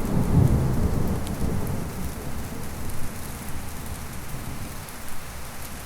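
Heavy rain falling steadily while a roll of thunder rumbles and fades away over the first few seconds.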